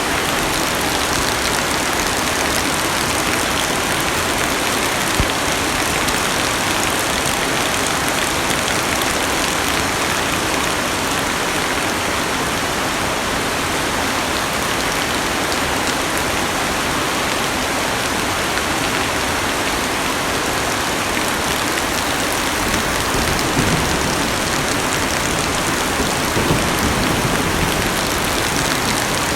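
Heavy rain falling on a car's roof and windows, heard from inside the cabin as a steady, dense hiss, with a few low rumbles near the end.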